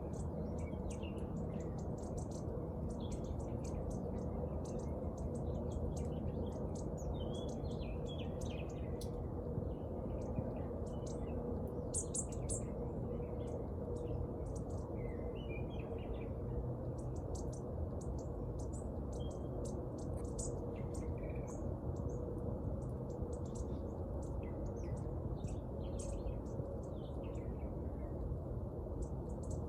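Small birds chirping in many short, scattered calls, over a steady low background rumble.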